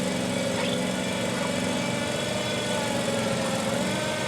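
Engine running steadily at an even pitch.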